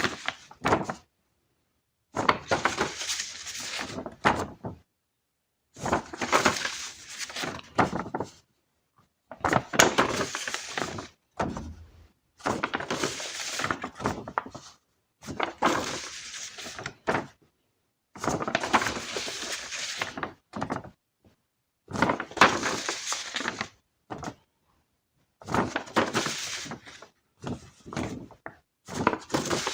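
Sheets of drawing paper being handled and shuffled, rustling and crackling in repeated bursts of one to three seconds with dead silence between them.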